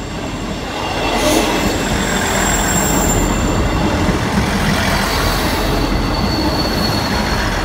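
South Western Railway Class 159 diesel multiple unit passing at close range: a steady rumble of wheels on rail and underfloor diesel engines that builds over the first second and then holds, with a faint high wheel squeal now and then.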